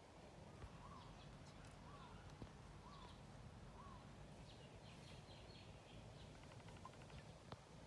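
Faint outdoor ambience with a bird calling: four short arched notes about a second apart, then a few faint high chirps, and a single light click near the end.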